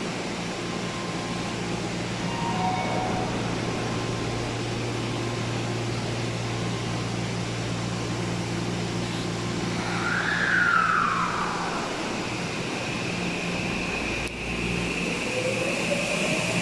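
Steady low hum of station and train equipment, with a single falling tone about ten seconds in. Near the end an electric train's motors start a rising whine that grows louder as the train picks up speed.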